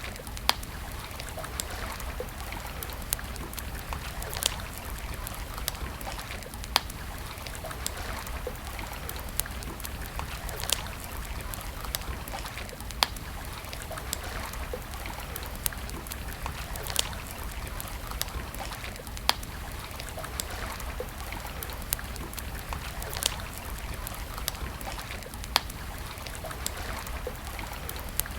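Wood campfire crackling: sharp single pops every second or two over a steady rushing hiss.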